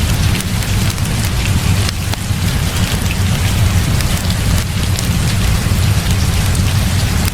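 Heavy rain falling steadily, with a continuous low rumble underneath and scattered sharp ticks of drops.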